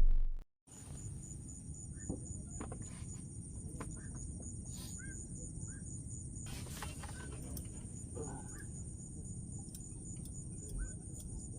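Outdoor ambience: a steady high-pitched insect drone with scattered short bird chirps and a few faint clicks.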